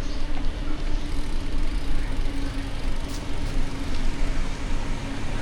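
City street traffic noise: a steady wash of passing vehicles, with a constant low engine hum throughout.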